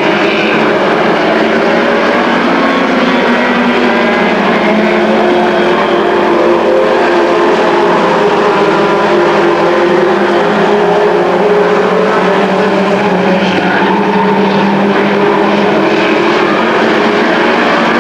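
A pack of short-track race trucks running laps, several engines going at once at speed, their tones overlapping and slowly rising and falling.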